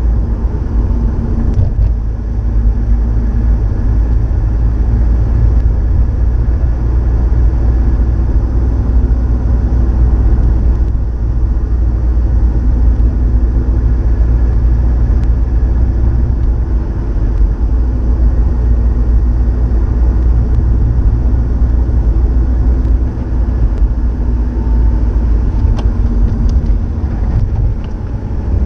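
Subaru Impreza WRX STI (GDB) turbocharged EJ20 flat-four engine running through an STI Genome muffler: a loud, steady, deep rumble whose pitch rises and falls a little with the throttle.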